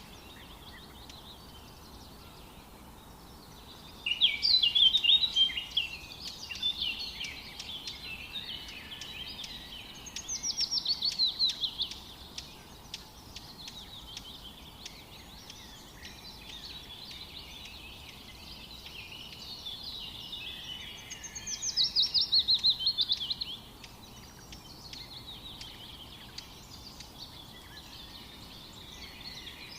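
Songbirds singing, several voices chattering over a faint steady background hiss. Loud bursts of song come about four seconds in, around ten seconds and just past twenty seconds, the last two as quick runs of repeated notes falling in pitch.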